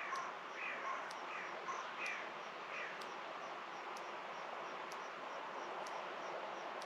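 A bird calls in a run of short, falling notes, one about every two-thirds of a second, stopping about three seconds in, over a steady outdoor background hiss.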